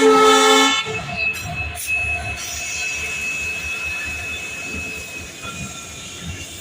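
A train horn sounds loudly and cuts off under a second in. It is followed by the steady noise of a train running on the rails, with a thin, high, steady wheel squeal over it.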